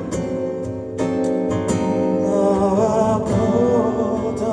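Live band music led by acoustic guitar, playing the instrumental bridge between two sung lines of a ballad.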